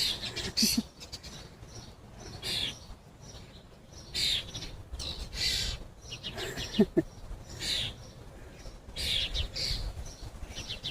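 European starlings chirping, short high calls repeated every second or so. Two brief, sharper low sounds come about two-thirds of the way in.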